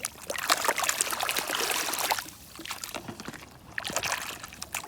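Water splashing and sloshing as a muddy toy mixer truck is washed by hand. It is loud for about the first two seconds, then drops to quieter trickling with a few small knocks.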